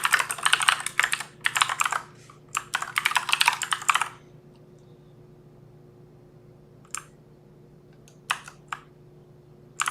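Fast typing on a computer keyboard for about four seconds, then a few single key clicks spaced over the rest, over a faint steady hum.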